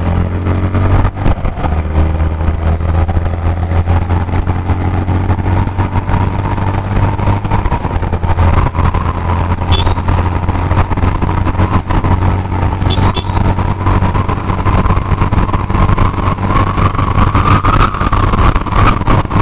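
Yamaha FZ-X's 149 cc single-cylinder engine running as the motorcycle is ridden at speed on a stretch of road, with wind buffeting the microphone; the engine note climbs slightly near the end.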